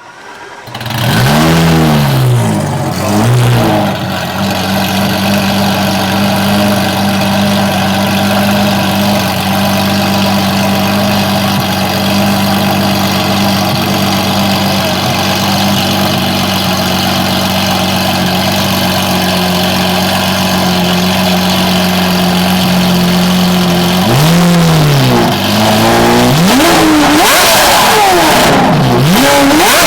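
A supercar engine is revved twice in quick blips, then idles steadily. Near the end it is revved again several times in quick succession.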